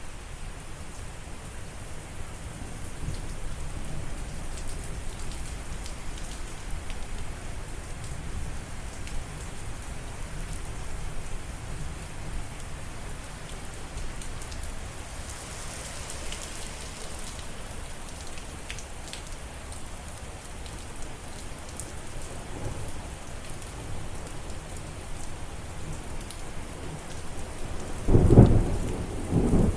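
Steady rain falling, with low thunder rumbling through the first part and a loud clap of thunder near the end.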